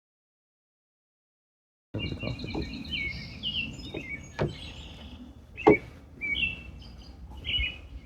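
Silence for about two seconds, then songbirds chirping over a low background rumble, with two sharp knocks, the louder one a little past halfway.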